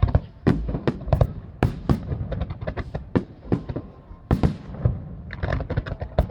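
Fireworks display: aerial shells bursting one after another in quick, irregular succession, about twenty bangs, several in tight clusters.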